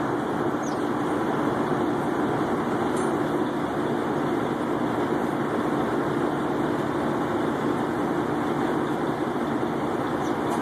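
Steady drone of idling truck engines, with a few faint, brief high chirps from small birds.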